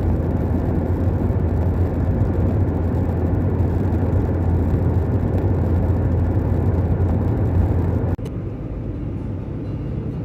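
A car driving, heard from inside the cabin: a steady road and engine drone with a strong low hum. About eight seconds in it cuts off abruptly, leaving a quieter steady noise.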